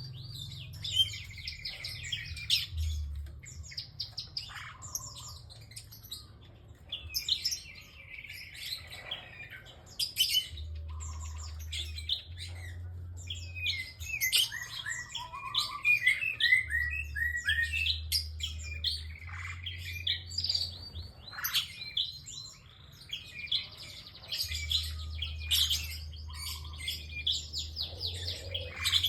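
A single prinia (prenjak) singing actively: bouts of rapid, high, repeated chirping notes broken by short pauses.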